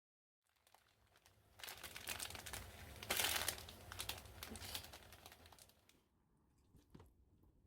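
Crinkling and rustling as something is handled, loudest about three seconds in and fading out, with a single click near the end.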